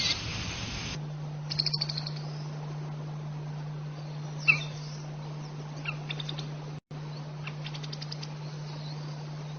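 Bird calls: several short, rapid trills and one sharp downward-slurred call, faint over a steady low hum. A loud hiss stops abruptly about a second in.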